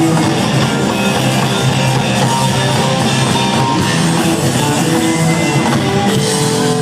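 Rock band playing live: electric guitars, bass and drums in an instrumental passage without vocals, loud and steady.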